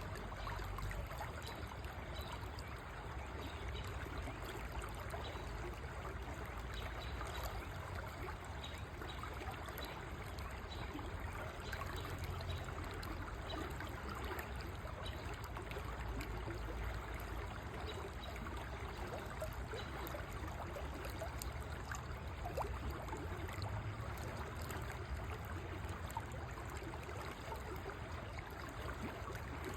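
River water flowing steadily, a constant rushing with trickling and gurgling over stones.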